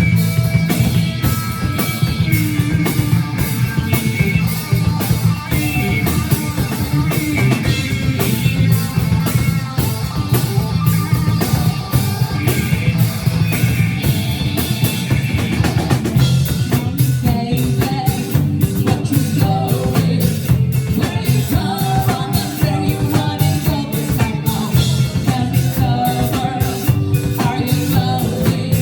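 A live rock band playing, with a drum kit, electric guitar and singing; the arrangement changes about halfway through.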